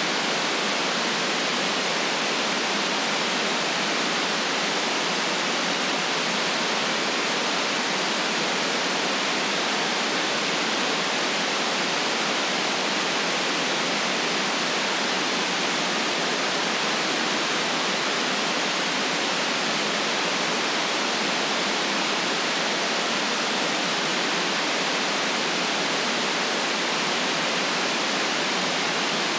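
Steady synthetic noise for relaxation, an even hiss with nothing below the low mids and nothing above the high treble, unchanging throughout.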